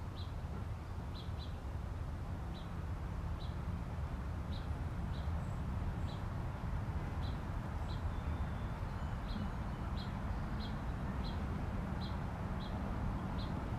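A bird's short, high chirp, repeated at uneven intervals about once or twice a second, over a steady low rumble.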